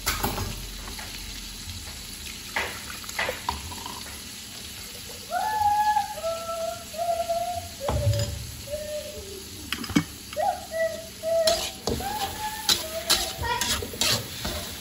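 Chilli spice paste sizzling in hot oil in an aluminium wok, with a metal spatula scraping and clicking against the wok in the last few seconds. About five seconds in, and again after ten, short high-pitched voice-like notes sound over the sizzle.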